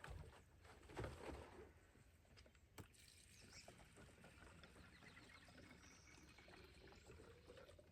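Near silence: faint outdoor background noise, with a soft knock about a second in and a sharp click near three seconds.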